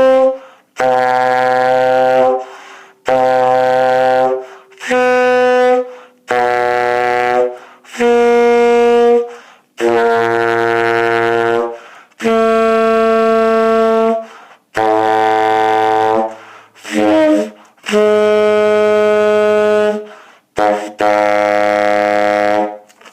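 Tenor saxophone playing a series of sustained long tones, about one every two seconds with short breaths between them. Each note is fingered with the octave key held but lipped down to the octave below, an exercise for opening the throat and strengthening the embouchure. One note a little past the middle wavers and breaks before it settles.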